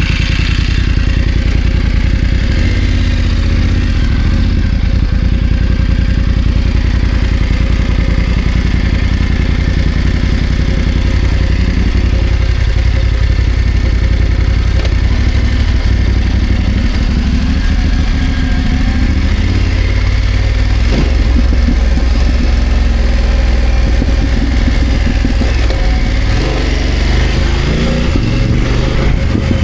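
BMW F900 GS parallel-twin motorcycle engine running steadily at low revs, its pitch shifting a little as the throttle is worked and rising near the end.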